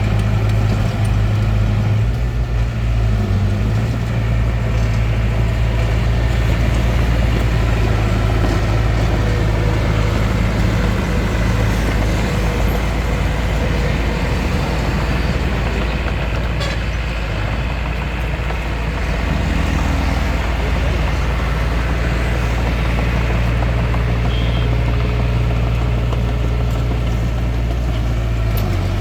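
Engine of a Hitachi DX45M bulldozer running steadily with a low, even drone.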